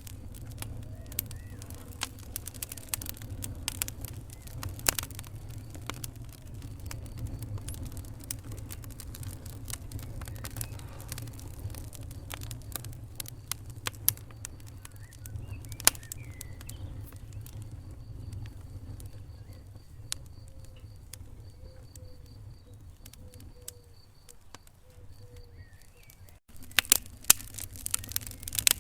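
Wood fire in a fireplace crackling: scattered sharp pops and snaps over a low steady rumble of the flames, with faint high whistling tones in the second half. The pops thin out through the middle and come thick again after a sudden break near the end.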